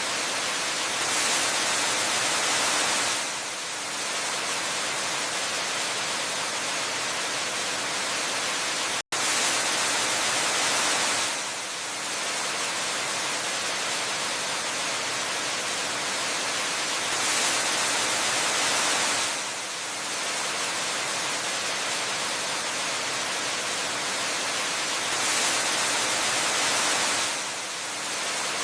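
Steady, even rushing of a waterfall, like white noise. It swells louder for a couple of seconds about every eight seconds, and cuts out for a split second about nine seconds in.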